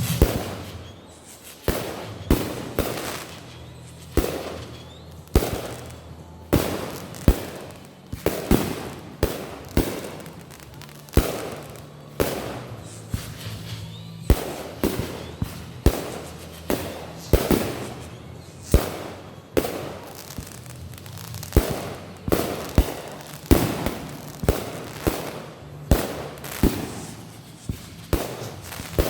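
Consumer fireworks going off: a steady run of sharp bangs, about one or two a second, each trailing off briefly.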